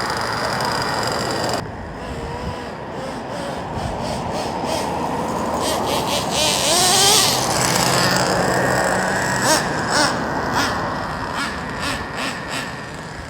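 Traxxas Revo nitro RC monster truck's 3.3 glow engine running, with a steady idle at first that drops in level after about a second and a half, then a rise in pitch and loudness around the middle.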